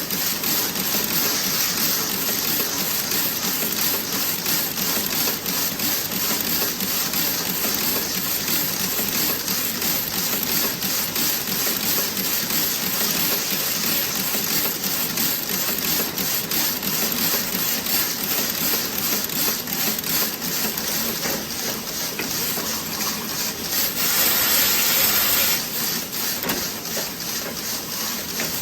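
Toe-sock knitting machine running, a steady, even clatter of needles and mechanism, with a short burst of hiss lasting about a second and a half near the end.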